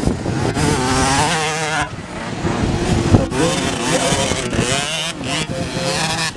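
Motocross dirt bike engines revving up and down, pitch rising and falling repeatedly as the bikes race.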